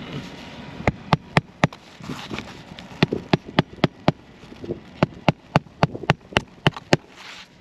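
Hammer driving roofing nails into asphalt shingles, in quick runs of strikes at about four a second: four about a second in, a few more around the middle, then about eight near the end.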